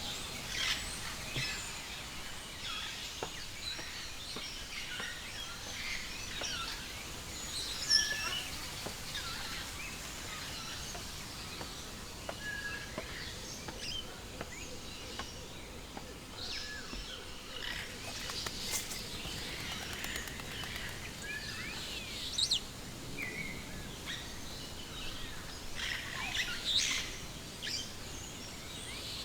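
Many birds chirping and calling over one another: short, overlapping chirps and calls throughout, over a steady background hiss, with one louder call about eight seconds in.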